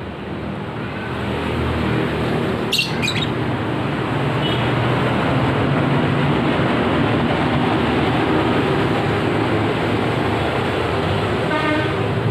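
A motor vehicle's engine running close by with traffic noise. It grows louder over the first two seconds and then holds steady. A couple of short, high bird chirps come about three seconds in.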